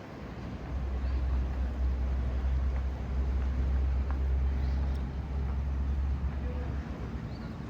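City street ambience with a deep, steady low rumble that swells in under a second in and fades away near the end.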